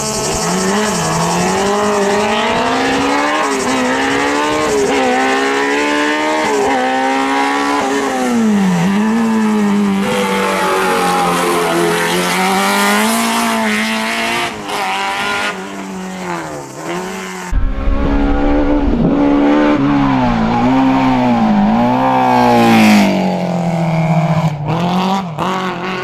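BMW M3 hill climb race car engine at full racing load, its pitch repeatedly climbing through the revs and dropping back at gear shifts and braking. About two-thirds of the way through the sound cuts abruptly to another run of the same kind.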